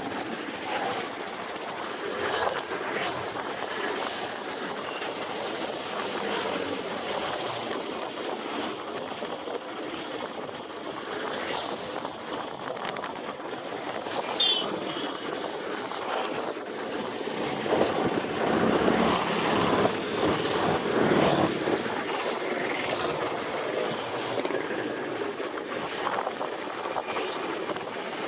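Steady road and traffic noise from a moving motorbike ride, rising for a few seconds about two-thirds of the way through.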